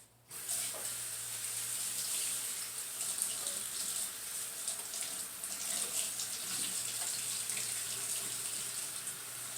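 Kitchen faucet running, water pouring steadily into a sink; it turns on abruptly just after the start.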